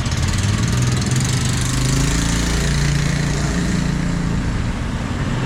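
A motor engine running close by, its pitch rising a little about one and a half seconds in and then holding steady.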